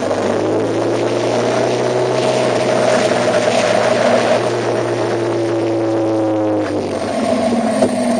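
A vehicle running, its motor hum steady underneath while higher engine tones slowly rise and fall in pitch, shifting to a lower tone about seven seconds in.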